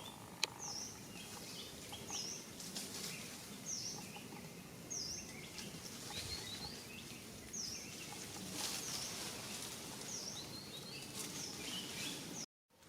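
A bird calling repeatedly with short, high, dipping chirps about once a second, with softer chirps from other birds over a steady outdoor noise; the sound cuts out completely for a moment near the end.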